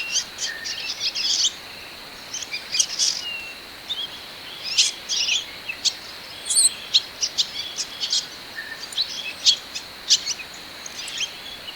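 Hill swallows calling: a run of short, high twittering chirps and buzzy notes at irregular intervals, over a faint steady high whine.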